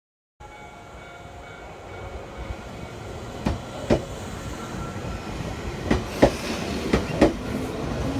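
Train running on jointed track, its wheels clacking over the rail joints in pairs, with a steady rumble that grows gradually louder.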